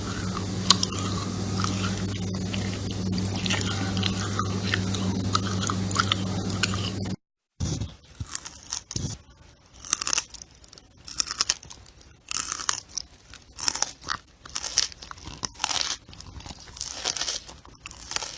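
Loud, close-up crunchy chewing and biting, in irregular bursts. During the first part a steady low hum runs under it, then after a short break the crunches come clearer and more spaced out.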